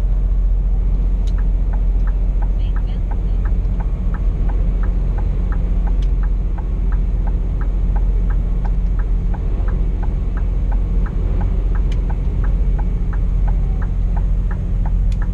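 A Scania P420 truck's diesel engine drones low inside the cab, under a turn-signal relay ticking evenly about three times a second as the truck prepares to turn onto a bigger road.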